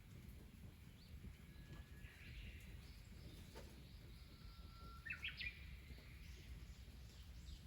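Faint birds chirping and calling over a low, steady outdoor rumble, with one louder call rising in quick steps about five seconds in.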